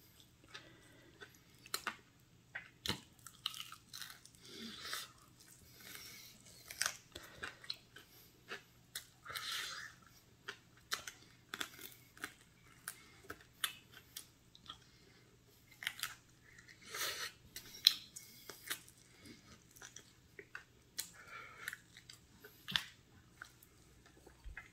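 Someone chewing and crunching Korean fried chicken: irregular crisp crunches, bites and small mouth clicks.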